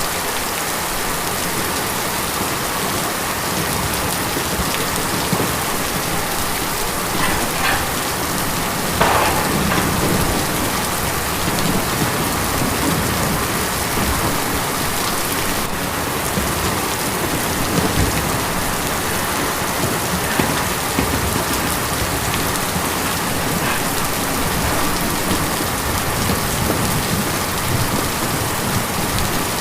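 Steady heavy rain drumming on a tin roof, with a few louder gusts of drops.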